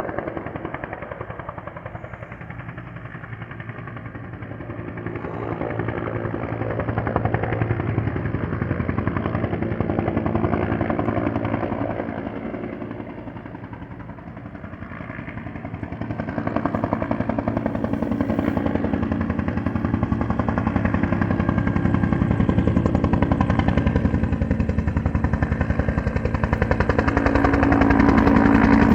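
Cal Fire helicopter's rotor chop and turbine. It swells, dips about halfway through, then grows steadily louder as the helicopter comes in close to land.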